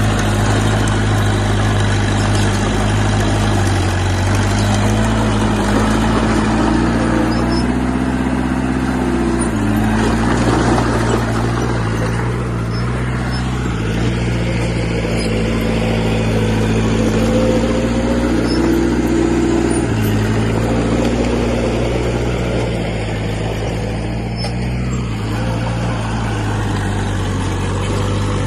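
Diesel engine of heavy earthmoving equipment running continuously under working load, its pitch stepping up and down several times as the load changes.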